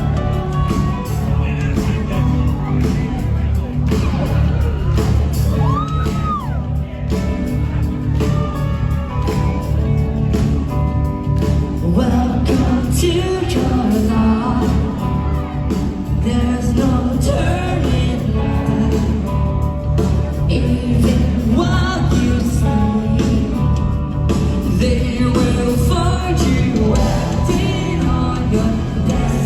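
Live post-hardcore band playing loudly in a large hall, with singing and crowd whoops over the music.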